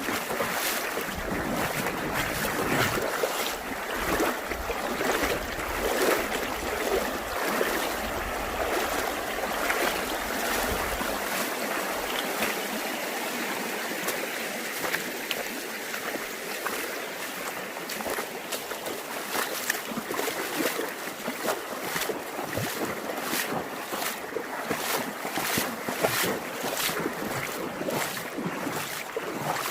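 Stream water rushing and splashing, with many short splashy pulses. Wind rumbles on the microphone for about the first eleven seconds, then drops away.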